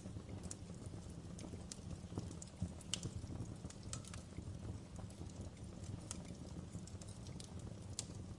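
Wood fire burning in a fireplace, crackling with irregular sharp pops and snaps over a low steady rumble; a couple of louder snaps about three seconds in and near the end.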